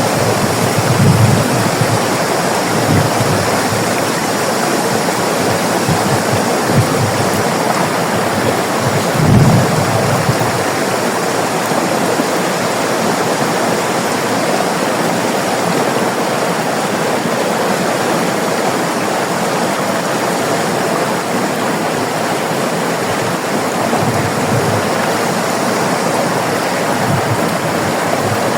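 River water rushing and splashing steadily, a loud even flow with a few brief low surges.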